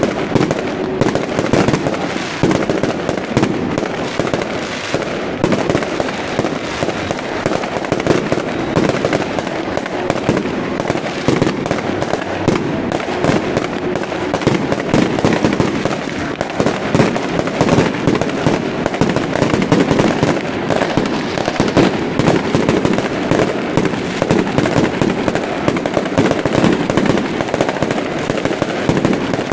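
A dense, unbroken barrage of fireworks and firecrackers: rapid pops packed close together, going on without a pause.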